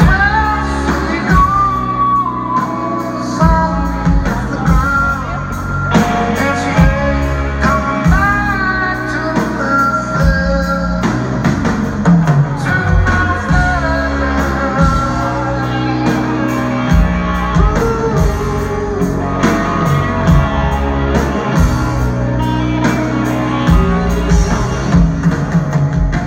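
Rock band playing live: a sung lead vocal over electric guitar, bass and drums.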